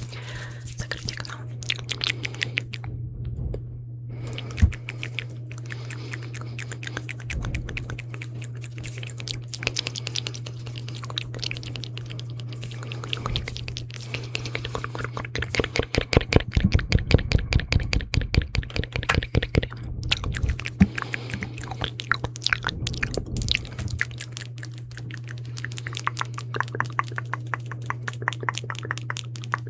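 Close-miked wet mouth sounds: rapid sticky clicks and smacks that come thickest past the middle, over a low steady hum.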